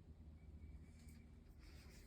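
Near silence: faint room tone with a low hum and a brief faint rustle near the end.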